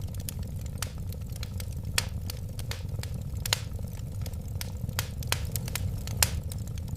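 Wood fire crackling, with sharp pops scattered irregularly over a steady low rumble of the flames; a few pops stand out louder, about two, three and a half and six seconds in.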